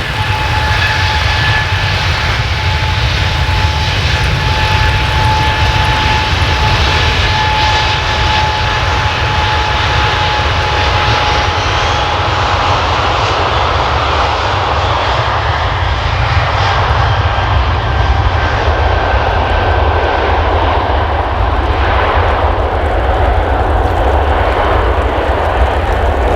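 Airbus A380 taking off, its four turbofan engines at takeoff thrust: loud, steady jet noise with a thin high whine. About halfway through the whine fades and the sound grows duller as the jet draws away.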